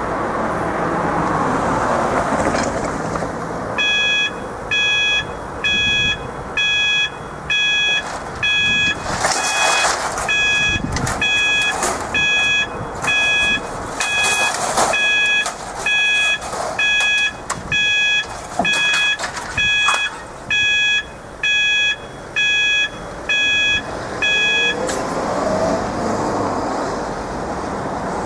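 Automatic level crossing warning alarm beeping about once a second, starting about four seconds in and stopping near the end, over the steady rush of road traffic.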